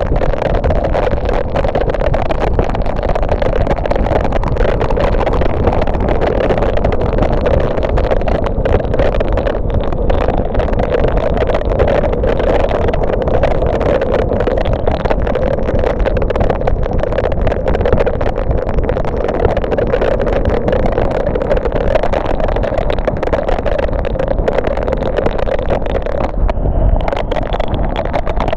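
Steady noise of a car driving on a wet road in the rain, an even tyre-and-road hiss over a low rumble.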